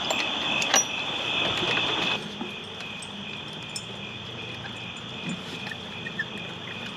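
Crickets trilling steadily in the night with a few faint clicks. A louder layer of the trill and hiss cuts off suddenly about two seconds in, leaving a fainter steady trill.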